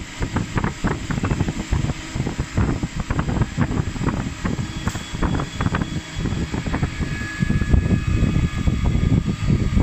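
Machine-shop noise around a CNC machine and a robot: a loud low rumble with frequent clicks and clatter. A faint high whine runs through the middle and latter part.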